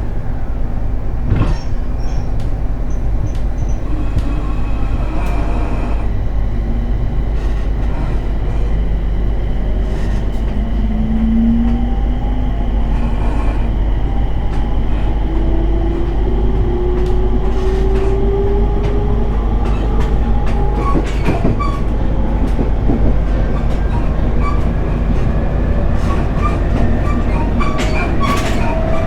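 Interior running sound of a JR 701 series electric train pulling away and accelerating: its traction motor and inverter whine rises in pitch over a steady rumble, with wheels clicking over rail joints.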